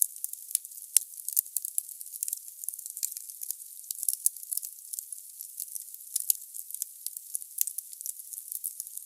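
Logs burning in a fireplace: a steady hiss full of small, quick crackles, with a few sharper pops, the loudest at the very start and about a second in.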